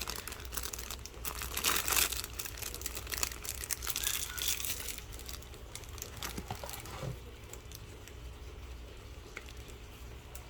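Packaging crinkling and rustling in irregular bursts as new oil-filter gaskets are handled, loudest about two and four seconds in, then dying down to faint handling noise.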